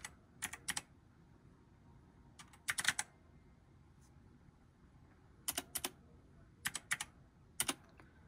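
Computer keyboard typing in short scattered clusters of keystrokes, a second or two apart, as a nickname is typed in.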